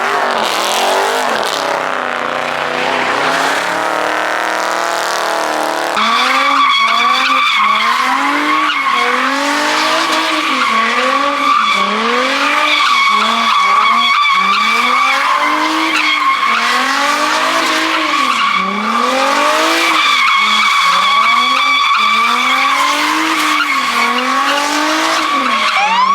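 A car doing donuts: tyres squealing continuously while the engine revs rise and fall about once a second. The sound changes abruptly about six seconds in, as if to another car or shot.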